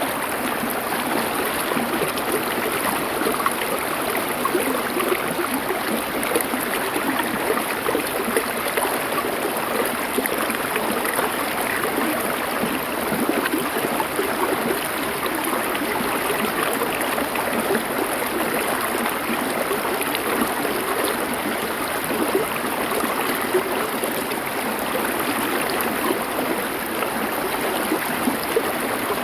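River water flowing over stones: a steady rushing with fine, continuous splashing and burbling.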